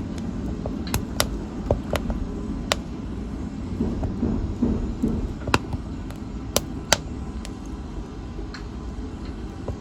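Wood fire burning in a fireplace: a steady low rush of flames with irregular sharp crackles and pops, about a dozen of them, most in the first seven seconds.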